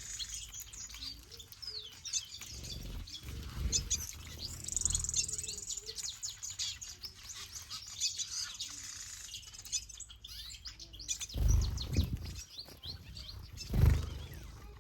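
Mixed aviary birds chirping, many short high calls overlapping one another. A few low thuds are mixed in, with two heavy ones near the end.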